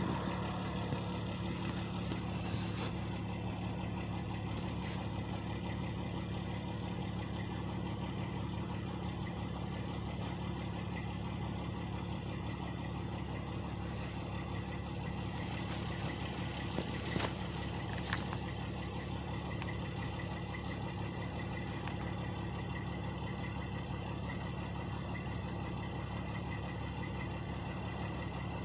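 Truck engines idling with a steady low hum, with a few faint clicks on top.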